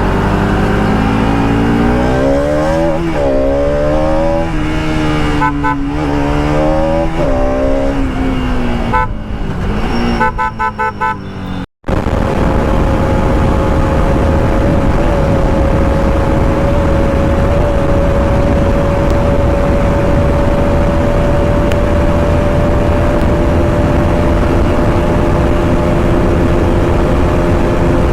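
Bajaj Pulsar RS 200's single-cylinder engine pulling hard, its pitch climbing and dropping several times as it is revved through the gears. After a brief break the engine settles to a steady high-speed cruise, a constant hum under a heavy, even rush of wind.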